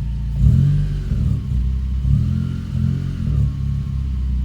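Honda Civic engine revved in a few short throttle blips from idle, the first and loudest about half a second in, then settling back to a steady idle.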